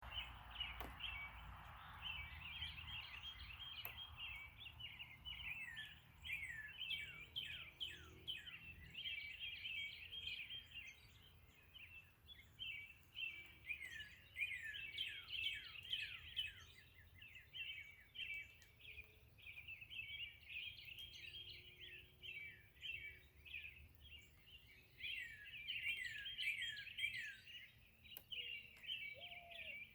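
Several kinds of songbirds singing together in a morning chorus: a dense, unbroken stream of quick chirps and downward-sweeping whistled notes, thinning a little about halfway through before picking up again.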